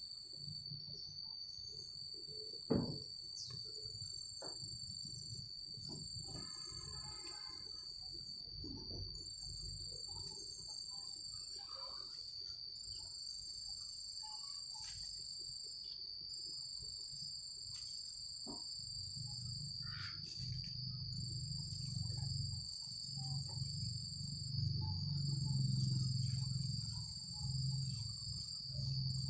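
Insects trilling steadily: one continuous high tone, with a second, higher trill that stops and starts every second or two. Beneath them is a low rumble that grows louder in the second half, and there is a single sharp click about three seconds in.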